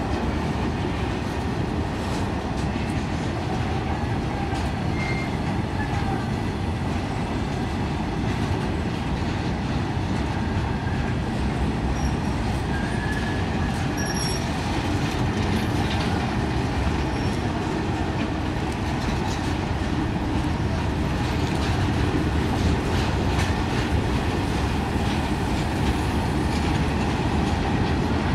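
Loaded BOXN open freight wagons rolling past at close range: a steady rumble and clatter of steel wheels on rail. A few brief, faint wheel squeals come about halfway through.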